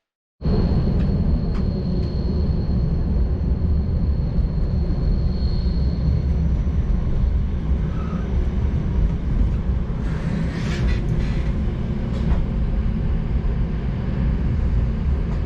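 Flåm Railway train running along the line, a loud steady rumble that starts suddenly, with a thin high whine over it for the first several seconds.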